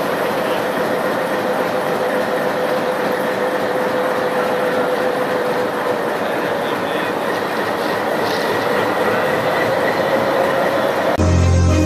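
Locomotive running slowly along the track: a steady rail rumble and rattle with a thin high tone held over it. Music cuts in just before the end.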